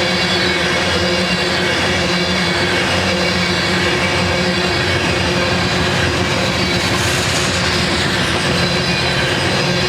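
BNSF freight train rolling past, a steady, continuous noise of cars on the rails with a constant hum of tones underneath.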